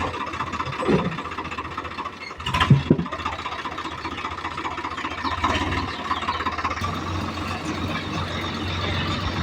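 Diesel engine running steadily at idle with a knocking clatter, and a brief louder clank about two and a half seconds in.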